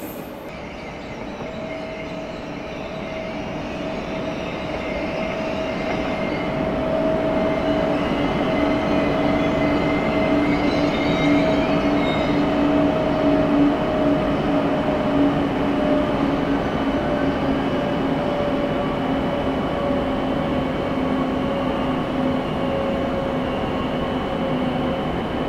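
A train at a station platform, growing louder over the first several seconds and then holding steady, with a running whine of two steady tones that sink slightly in pitch, and a faint high squeal about ten seconds in.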